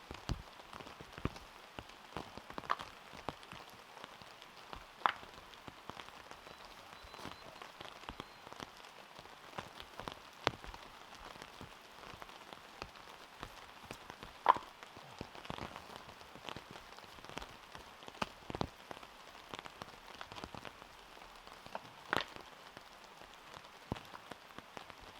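Steady rain falling, with irregular heavier drops tapping sharply close by, one louder tap about halfway through.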